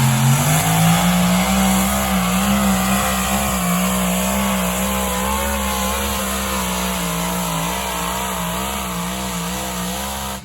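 Engine of a competition puller at full throttle down the pull track. The pitch climbs over the first second, then holds high with a wavering note, and the sound slowly fades as the puller moves away.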